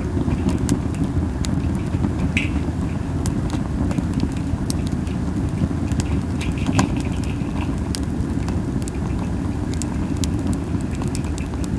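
Japanese spindle wood burning in a campfire, crackling with sporadic sharp pops, over a steady low rumble of wind on the microphone.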